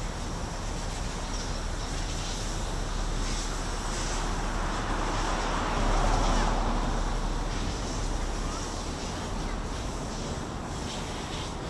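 Steady city traffic noise, swelling as a vehicle passes about six seconds in and then fading.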